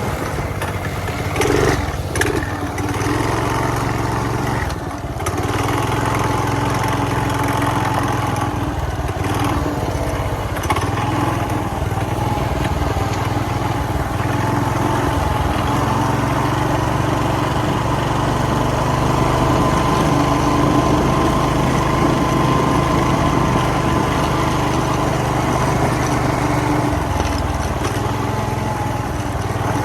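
Small 40cc engine of an X Pro mini dirt bike running steadily while being ridden, its pitch rising a little midway. A few knocks and rattles sound about two seconds in.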